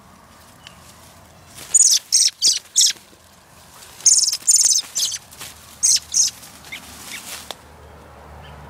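A small bird chirping loudly: sharp high-pitched chirps in quick clusters of three or four, fading to fainter calls near the end.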